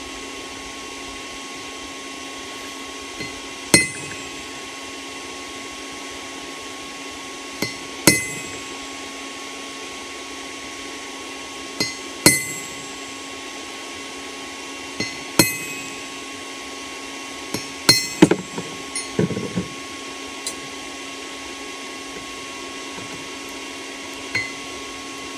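Hammer striking a punch or chisel on steel at the anvil: about five sharp, ringing blows several seconds apart, each just after a light setting tap, then a quick run of lighter knocks. A steady hum with a constant tone runs underneath.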